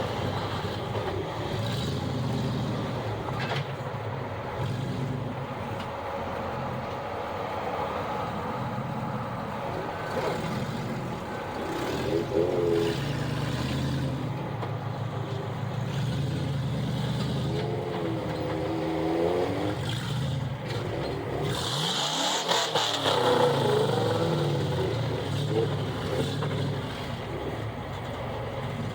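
Off-road vehicle engines running on a rock-trail climb, revved up and back down several times, most around the middle and near the end.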